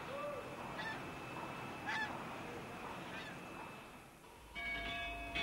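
Birds calling: about five short, arched calls spread over three seconds against a steady background hiss. About four and a half seconds in, a set of steady held tones with a low rumble begins.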